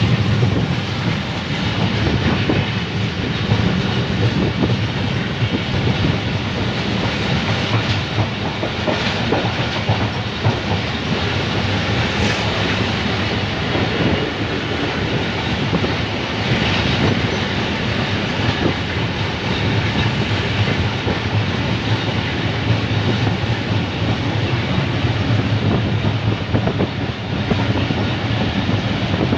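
Diesel train running along the track, heard from its open doorway: a steady low engine rumble with the wheels clattering over the rail joints.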